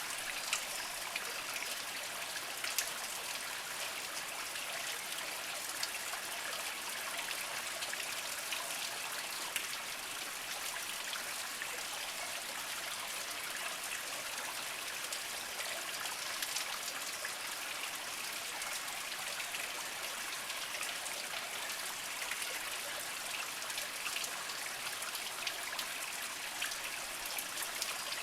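A small mountain spring trickling and flowing slowly over mossy rocks, a steady water sound with many fine drips and splashes.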